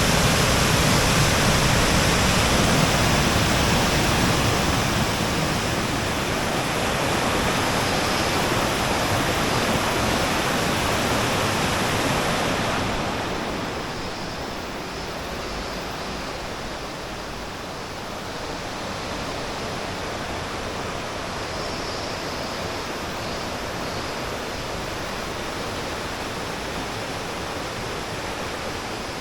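Waterfall pouring, a steady dense rush of falling water that becomes quieter and duller about thirteen seconds in.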